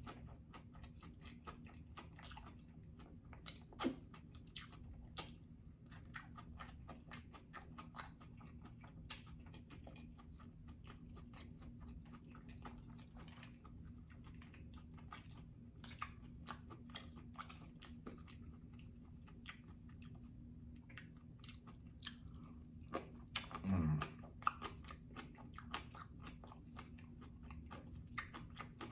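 Quiet, close-miked chewing of sushi and seaweed salad, with many small wet mouth clicks and crunches. There is one short, low, falling hum about two-thirds of the way through.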